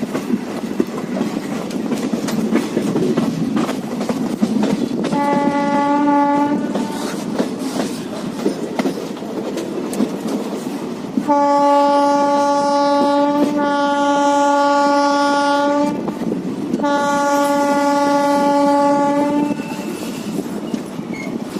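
Indian Railways locomotive horn sounding three blasts, one short, then a long one of about four seconds, then a medium one, over the steady clickety-clack and rumble of a moving passenger train's wheels on the rails.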